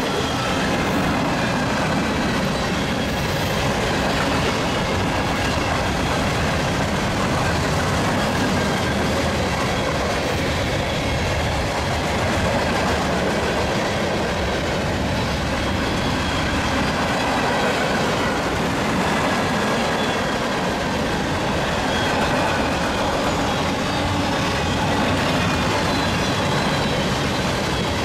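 Union Pacific mixed freight train passing, with the steady rolling rumble and clatter of its cars on the rails.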